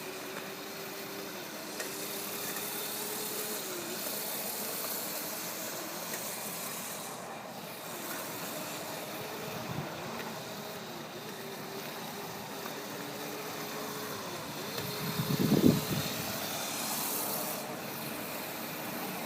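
Razor MX350 electric dirt bike's motor whining, its pitch dipping and climbing back several times as the bike slows and speeds up. A brief louder burst comes about fifteen seconds in.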